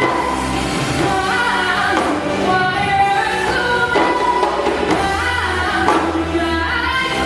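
A woman singing a pop song over a backing track, her voice bending through sustained, ornamented notes above a repeating bass line.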